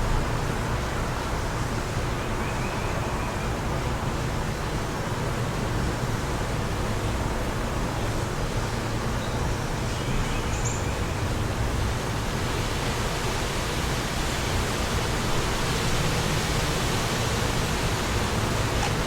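Steady wind rushing, with low rumble, and a few faint bird chirps, around three seconds in and again about ten seconds in.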